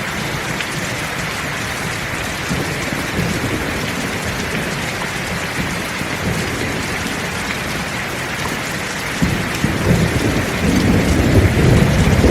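Steady heavy rain falling, with a low rumble of thunder breaking in about three-quarters of the way through and growing louder.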